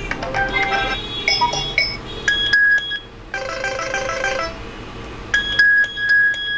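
Asus Zenfone Max Pro M1's loudspeaker (ringer) playing a chiming ringtone melody of short, bright notes; the ringer works again after repair.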